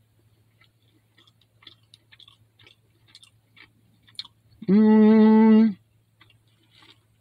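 Chewing a bite of salt-grilled black throat sea perch fillet, with soft wet clicks of the mouth. About four and a half seconds in comes a loud steady pitched tone, lasting about a second.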